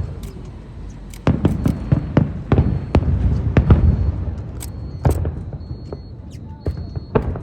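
Aerial fireworks shells bursting: a rapid run of sharp bangs over a low rumble in the first half, then a few scattered bangs later.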